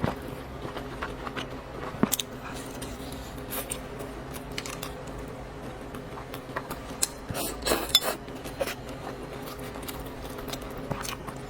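Eating noodles: utensils clicking and scraping against a bowl in scattered sharp taps, busier about eight seconds in, over a steady faint hum.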